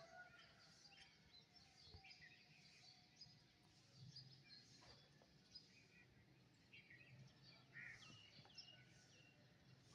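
Songbirds chirping faintly with short scattered calls, including a few quick falling notes about eight seconds in, over a faint low hum.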